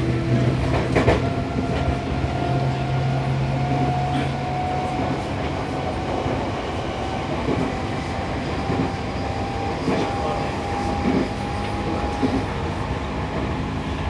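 Seibu 6000-series train running, recorded inside a motor car with Toshiba IGBT VVVF traction equipment: a steady rumble of wheels on rail under a thin traction-motor/inverter whine that rises slowly in pitch as the train gathers speed. A few wheel knocks over rail joints come about a second in and again around ten seconds in.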